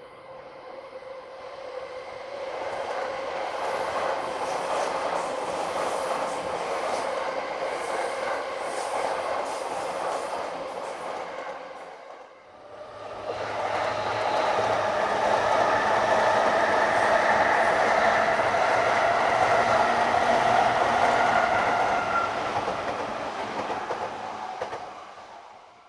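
Two electric passenger trains pass one after the other. The first rises, runs steadily with wheel clatter over the rails and fades about halfway through. Then a JR Sobu Line local train passes louder, with a steady electric motor whine over the rumble of its wheels, and fades out near the end.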